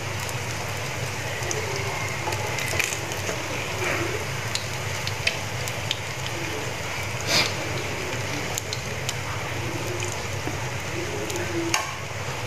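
Battered small shrimp frying in hot oil in a pan, a steady sizzle, with a few sharp clicks of metal tongs against the pan.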